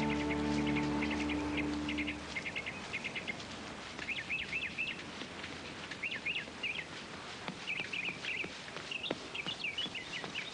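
Small birds chirping in short repeated bursts over a steady outdoor background. Held music notes fade out about two seconds in.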